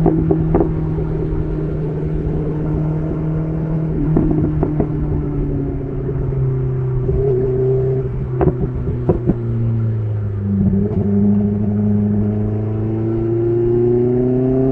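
BMW S1000RR inline-four sport bike engine through an SC Project CR-T titanium exhaust, heard while riding. The engine note steps down about six seconds in and again about ten seconds in, then rises near the end, with a few short sharp cracks along the way.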